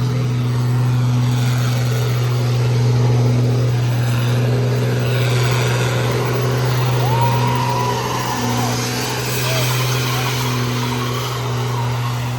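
Truck engines running loud and steady, with a hiss of spinning tyres swelling about five seconds in and a few short squeals before it fades near the end.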